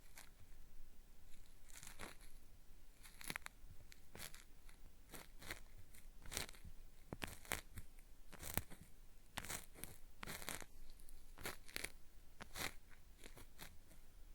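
Cotton swab rubbing and scraping at a binaural microphone's ear in a gritty, peeling-like ear-cleaning sound: irregular crackly strokes, about one or two a second, some in quick clusters.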